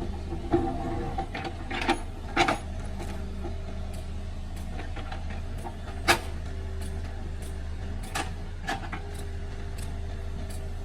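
Excavator engine running steadily, with a series of sharp knocks and clanks over it, the loudest about six seconds in.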